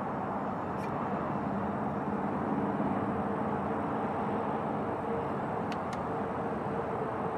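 Steady engine drone with an even low hum, and two faint ticks about six seconds in.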